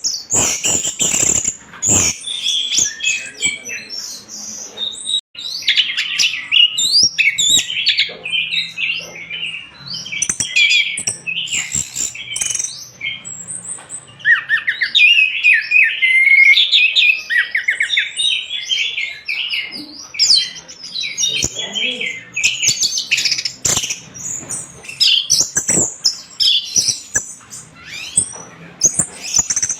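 Orange-headed thrush singing without a break: a fast, varied stream of chirps, whistles and trills, with a few sharp clicks among them.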